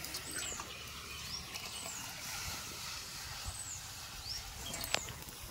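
A bird calling over and over, short high arched chirps about once a second, over a steady outdoor hiss with a few sharp clicks.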